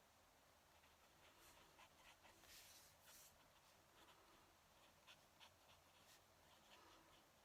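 Faint scratching of a fountain pen nib across paper in short, irregular strokes, with a couple of longer strokes about two and a half to three seconds in.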